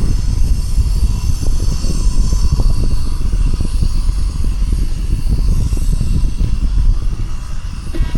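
Wind buffeting the microphone of a camera carried on a moving bicycle: a loud, steady, fluttering low rumble.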